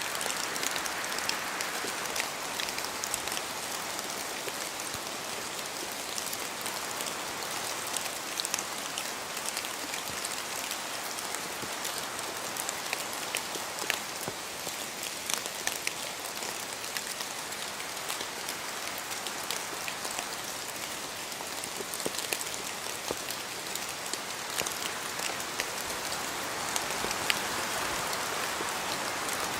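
Steady rain in a forest, with many separate drops falling from the trees and pattering sharply on leaves. A broader rush of wind swells near the end.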